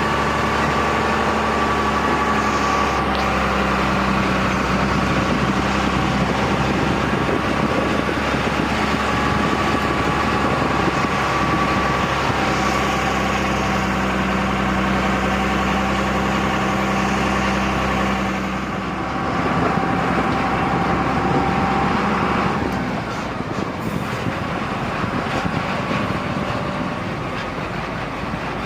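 Truck's diesel engine running with a steady drone while the truck is driven; the engine note shifts about two-thirds of the way through and drops a little soon after.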